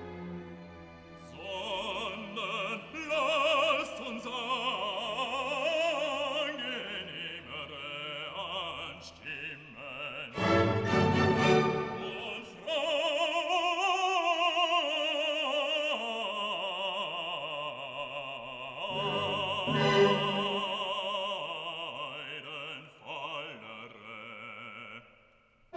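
Operatic singing: a trained voice with a wide vibrato over classical music.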